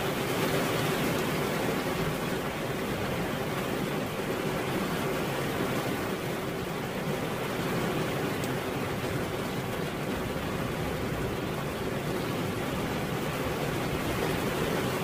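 Steady rain falling, an even hiss with no distinct drops or gaps.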